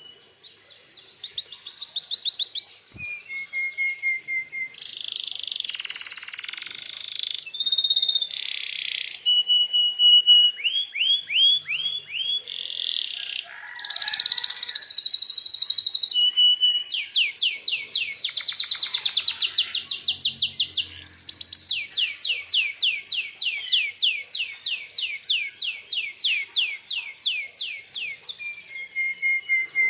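Male domestic canary singing continuously, a varied song of fast repeated trills, held whistled notes and buzzy rolls, with long runs of rapid trill notes in the second half.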